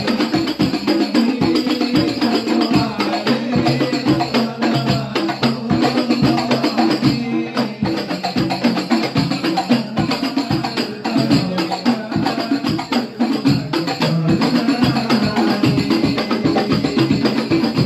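Several darbuka goblet drums played together in a fast, dense rhythm, with a brief lull about seven seconds in.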